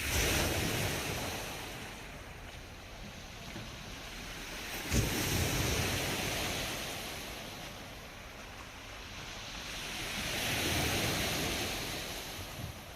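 Black Sea waves breaking on the shore three times, each a rush of surf that fades away. The first two break suddenly, at the start and about five seconds in, and the third swells more slowly near the end.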